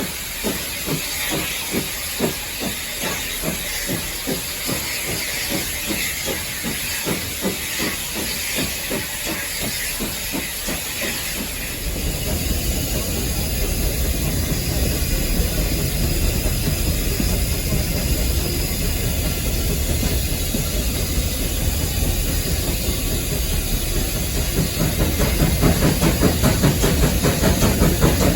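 Steam locomotive heard from the cab: a steady hiss of steam over an even, repeating beat. About twelve seconds in the sound grows louder and heavier, and near the end the beat comes faster.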